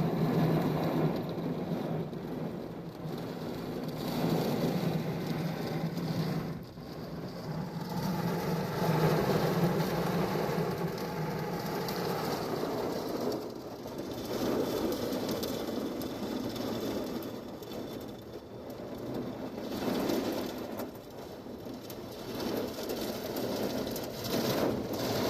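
Heavy rain pouring down in a thunderstorm, a steady wash that swells and eases every few seconds.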